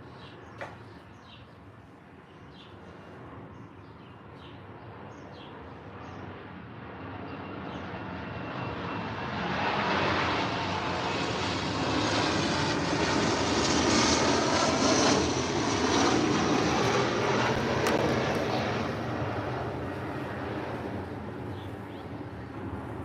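An aircraft passing over, its engine noise swelling slowly to a peak about two-thirds of the way through and then fading away, with short bird chirps in the first few seconds.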